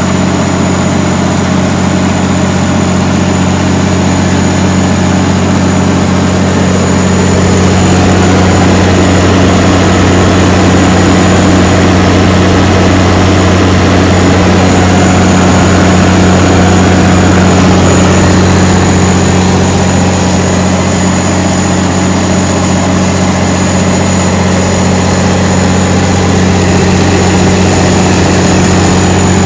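Engine-driven generator set, a White Motor Company engine driving a Kohler generator, running steadily with an even, unchanging engine note.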